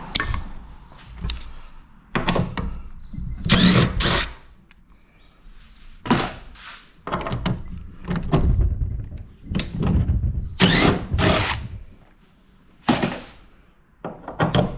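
Power drill-driver running in short bursts, several times over, backing screws out of an air-conditioner's sheet-metal housing, with thunks of metal parts being handled.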